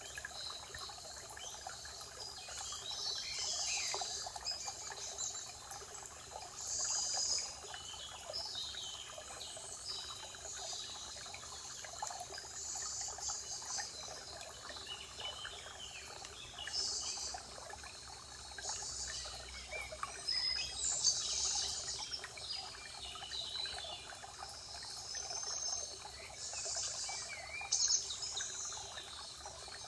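Spring forest ambience: several songbirds singing and chirping, with high buzzy trills every few seconds, over a steady trickle of running water.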